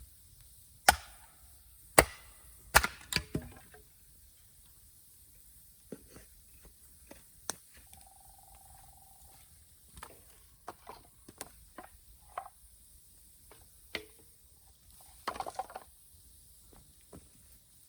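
Wood being chopped: five sharp strikes in the first three and a half seconds, then scattered lighter knocks and clicks, with a brief steady tone about eight seconds in and a short rattling cluster near the end.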